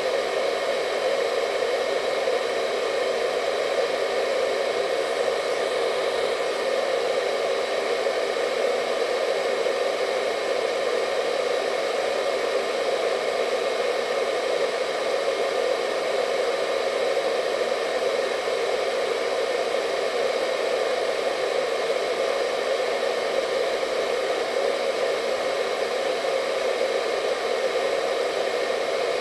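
Hair dryer running steadily: an even rush of blown air centred in the low mids, with a faint whine from the motor and fan.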